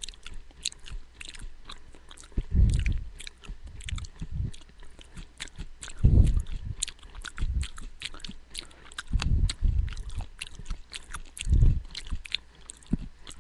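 A person chewing raw, sprouting beans and peas close to the microphone, with many small crisp crunching clicks and a few dull low thumps spaced a few seconds apart.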